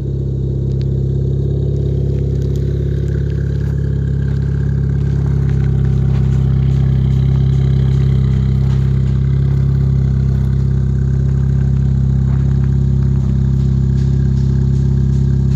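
2019 Ford Fiesta ST's 1.5-litre turbocharged three-cylinder idling steadily through an MBRP cat-back exhaust after a cold start.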